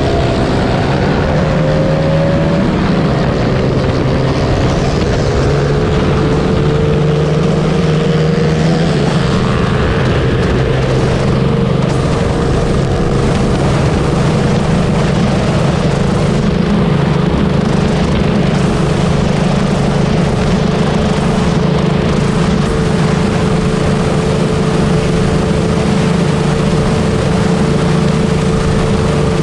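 Honda Wave 125 motorcycle's single-cylinder four-stroke engine running at a steady cruise, under heavy wind rushing over the microphone. The engine note climbs over the first few seconds, then holds steady.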